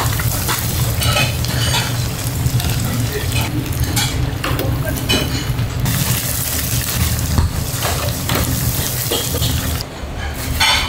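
Restaurant kitchen cooking: food sizzling in a pan, with scattered clinks and scrapes of utensils and pans over a steady low hum.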